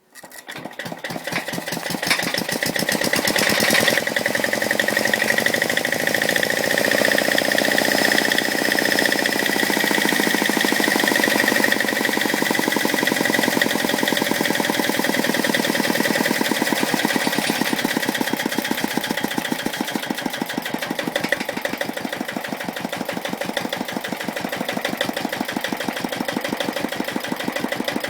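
Bernard W51 single-cylinder diesel engine starting up and picking up speed over about two seconds, then running steadily with a rapid, even beat of firing strokes.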